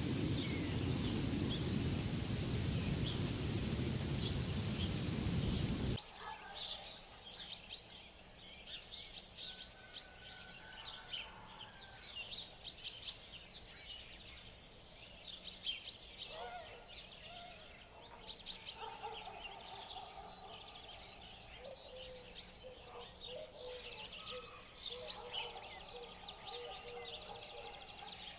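A steady rushing noise cuts off abruptly about six seconds in. A chorus of many birds takes over, with rapid high chirps and clicks over longer, wavering lower calls.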